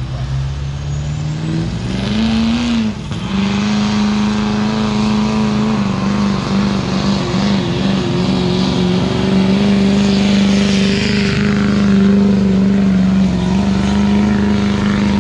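Pulling truck's engine revving up and then held at high revs under load as it pulls the sled down the track, with a brief dip in revs about three seconds in.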